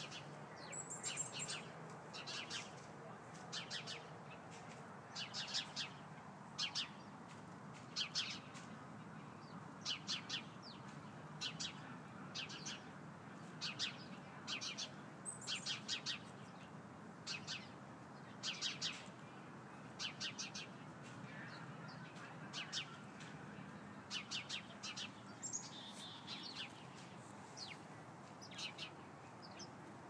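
Small songbirds chirping in quick runs of short, sharp notes, a run every second or two.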